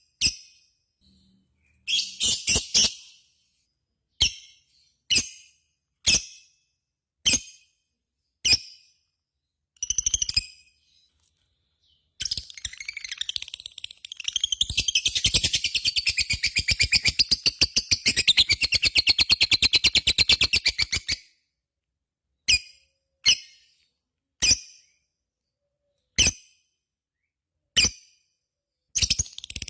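Lovebird calling: short sharp chirps about a second apart, then a long, rapid chattering run of about nine seconds (the 'ngekek panjang' that bird keepers prize), then single sharp chirps again.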